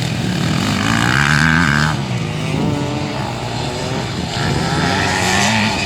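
Motorcycle engine running, its pitch rising and falling twice as it revs up and eases off.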